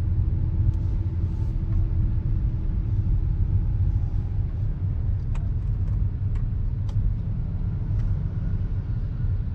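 Hyundai Aura driving, heard from inside the cabin: a steady low road and engine rumble with a few faint light clicks. There is no knocking from the freshly repaired steering column, which shows the knock is cured.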